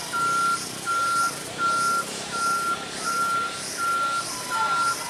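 Truck reversing alarm beeping: a single high steady tone, seven even beeps, roughly one every three-quarters of a second.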